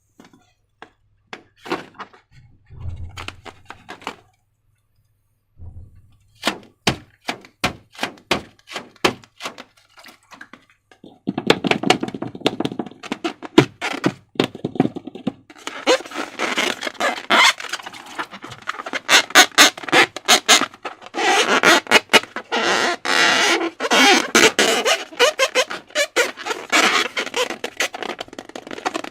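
Slime being worked by hand, making sticky clicks and small pops. They are sparse at first, with a short silent gap, then turn into dense continuous squelching and crackling from about a third of the way in.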